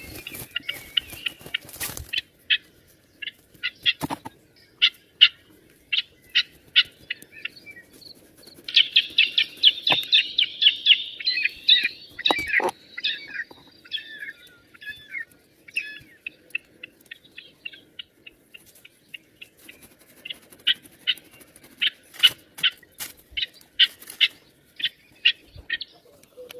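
A small bird chirping over and over in short, high calls, with a fast chattering run of chirps about nine seconds in, and a few soft knocks from it being handled.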